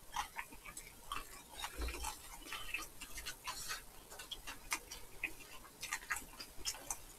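Close-miked eating sounds: irregular soft crunches and wet mouth clicks of chewing crispy nurungji (scorched rice cracker) topped with braised chicken, a few clicks a second.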